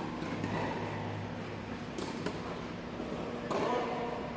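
Tennis ball struck by a racket: sharp pops about two seconds in, a louder one followed quickly by a fainter one.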